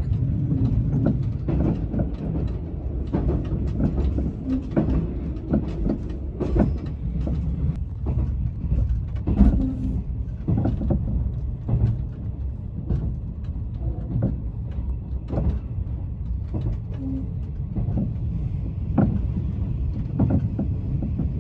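Running noise heard inside the cabin of a JR West 381 series tilting electric express: a steady low rumble from the wheels and running gear, with sharp clicks and knocks at irregular spacing as the wheels pass over rail joints and points.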